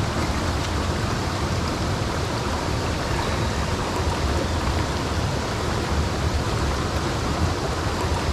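Mountain stream rushing steadily, an even roar of flowing water with a deep low rumble.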